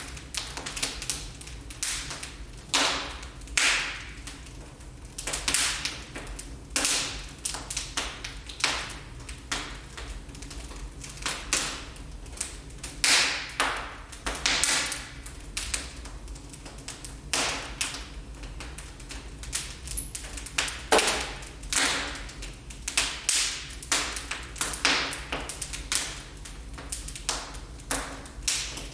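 Wood fire crackling in a fireplace: irregular sharp pops and snaps, several a second, over a faint low steady rumble.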